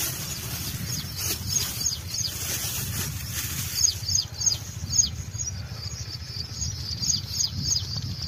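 A bird calling with quick, repeated, high descending chirps, several a second, through the second half. In the first few seconds there is crackly rustling from a plastic bag and paper being unwrapped by hand, with a low steady rumble underneath.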